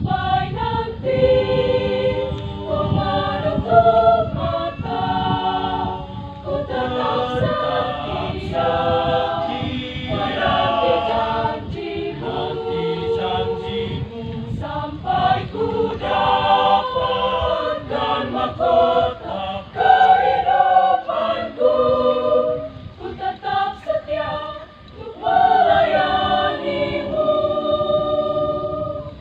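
Church choir singing a gospel song together, in sustained phrases with a short break about three-quarters of the way through.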